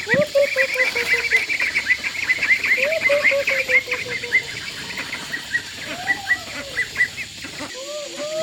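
A flock of young poultry peeping rapidly, with several longer, lower drawn-out calls mixed in. The peeping thins out about halfway through.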